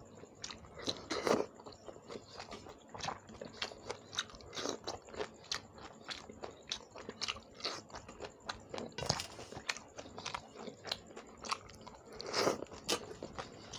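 Close-miked chewing and biting of shrimp curry with rice, with many small crunches and crackles and a few louder bites, about a second in, near nine seconds and near twelve seconds.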